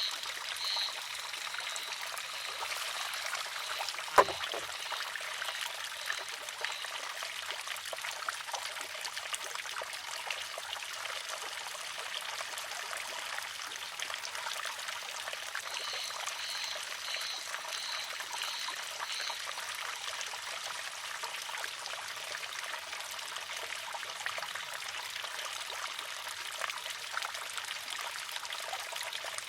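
Water trickling steadily through a wooden, water-driven shishi-odoshi, with one sharp clack about four seconds in as the filled arm tips and strikes its stone. Two short runs of high, evenly repeated chirps sound over the water, near the start and again past the middle.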